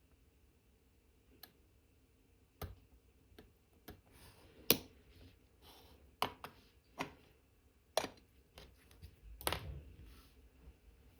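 Watchmaker's small metal tools and watch parts clicking and tapping on the bench in irregular light strokes, the sharpest a little under halfway through.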